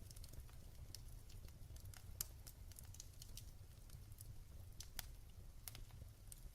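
Wood fire crackling in a fireplace: quiet, irregular pops and snaps over a low steady rumble, with sharper pops about two seconds in and again at about five seconds.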